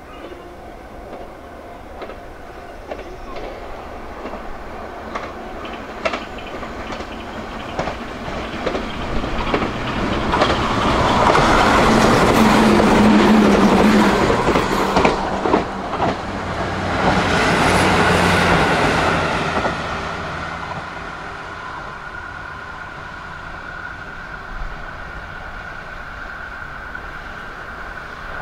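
A train passing close by, its wheels clacking over the rail joints. The sound builds from about eight seconds in, is loudest twice, around twelve to fourteen seconds and again around seventeen to nineteen seconds, then fades to a steady background.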